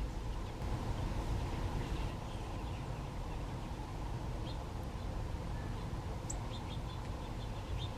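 Wild birds chirping, short high calls scattered through the second half, over a steady low background rumble.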